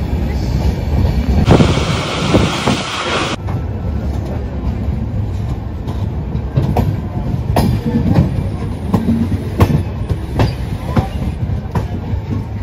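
Passenger train coach running along the track, heard from an open doorway: a steady rumble of wheels on rails with irregular clicks over the rail joints. A burst of rushing hiss comes in about a second and a half in and lasts about two seconds.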